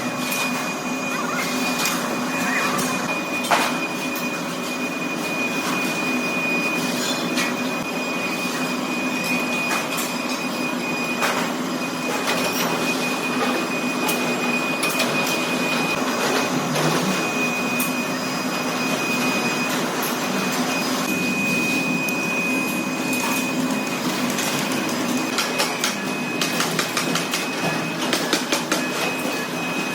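Heavy workshop machinery running steadily, with a low hum, a thin high whine and scattered clicks and knocks.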